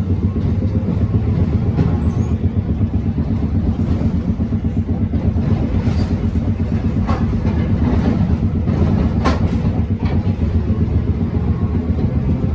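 Manyosen tram running on its rails, with a steady low hum of the running gear and a few sharp clicks of the wheels over rail joints or points in the middle.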